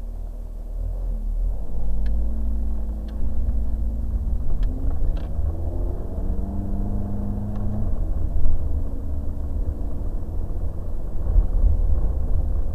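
Ferrari 430 Scuderia's V8 engine heard from inside the cabin while driving, over a strong low rumble. Its pitch climbs, falls back about eight seconds in, then holds steady, with a few faint clicks along the way.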